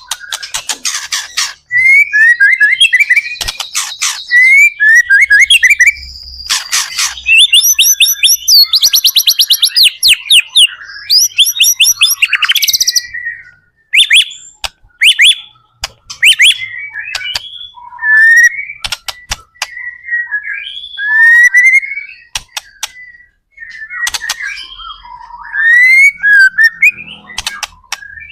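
White-rumped shama (murai batu) singing in full song: fast runs of loud whistles, pitch sweeps and rapid trills, broken by short pauses.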